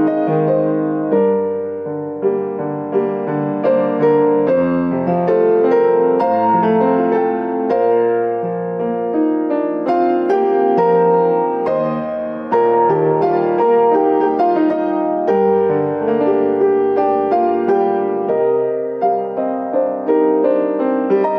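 Piano playing a melody over chords, with many notes struck in quick succession and left ringing into one another.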